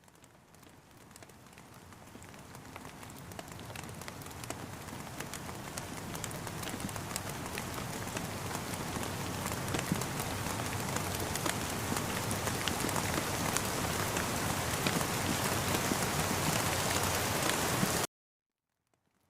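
Rain falling steadily, with many separate drops tapping sharply through the hiss. It fades in gradually from near silence over the first several seconds, then cuts off abruptly near the end.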